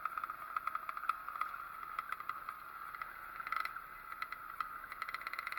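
Small two-stroke Zündapp engine on a pit bike running steadily, a rapid buzzing run of firing pulses.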